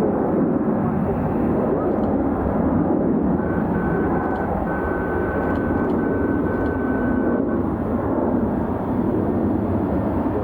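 Jet aircraft engines running, a steady loud rumble, with a thin high whine that comes and goes in the middle.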